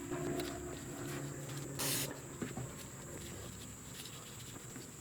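Small rubbing and handling noises from cleaning brake caliper parts by hand, over a low steady hum, with one short hiss about two seconds in.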